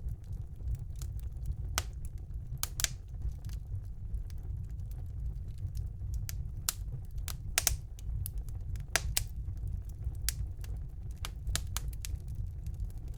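Fire burning in a fireplace: a steady low rumble of the flames with irregular sharp crackles and pops, a few louder snaps among them.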